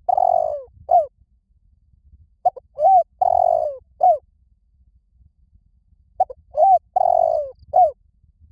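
Spotted dove cooing, repeating its multi-note phrase: a short note, two rising-and-falling coos, one longer rough coo and a closing coo. Two full phrases come about three and a half seconds apart, after the end of an earlier one.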